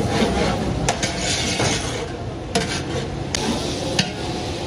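Onions frying in oil in a large cooking pot for kabuli pulao, sizzling as a metal ladle stirs and scrapes through them. Several sharp knocks of the ladle against the pot.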